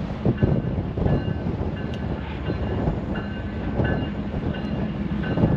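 Freight train rolling: a steady low rumble with irregular knocks and clanks, and short, thin high squeals that come and go.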